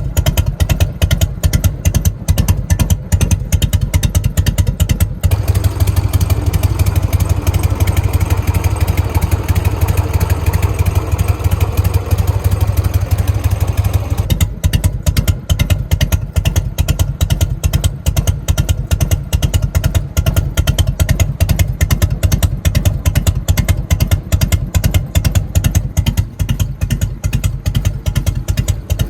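Harley-Davidson Evolution V-twin idling through fishtail mufflers with a loping, uneven three-beat "potato" rhythm set by an aftermarket ignition kit. For about nine seconds in the middle the exhaust note turns heavier and fuller.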